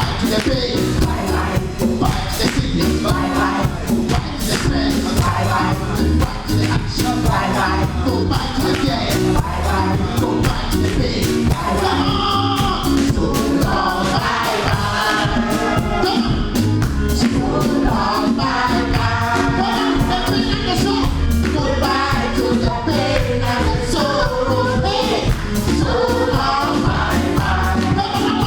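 Live gospel choir singing with band accompaniment and a steady drum beat.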